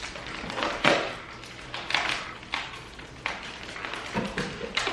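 Several light taps and clicks of a utensil against a takeout salad bowl, spaced unevenly.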